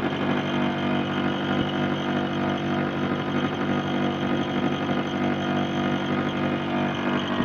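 Window air conditioner running steadily, its compressor humming and its fan on high. The compressor is old, and the trainer puts the unit's noise down to that.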